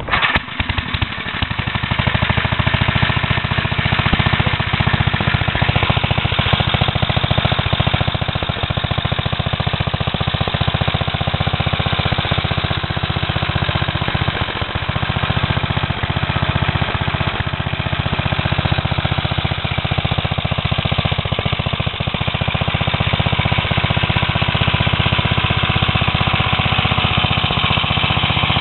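An engine running steadily, building up over the first couple of seconds and then holding an even, rapid pulsing beat.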